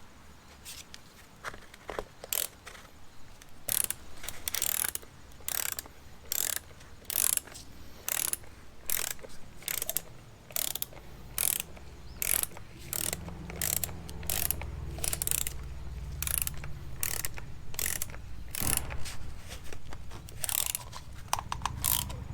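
Hand ratchet clicking through repeated short back-strokes, about one a second, as the new 13 mm plug on the oil filter housing is run in.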